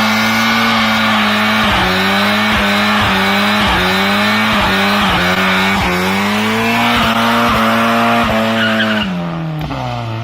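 Mazda MX-5 Miata engine held at high revs during a burnout, tyres squealing steadily. The revs dip briefly and recover about twice a second, then fall away near the end.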